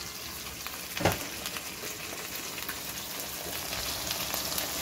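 A yogurt and ground-spice masala sizzling in hot oil in a wok, a steady hiss full of small crackles. A single sharp knock sounds about a second in.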